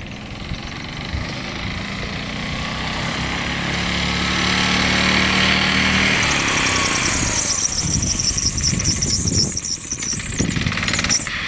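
Small minibike engine running as the bike rides by, getting louder over the first few seconds, then its pitch drops and the sound falls away briefly near the end.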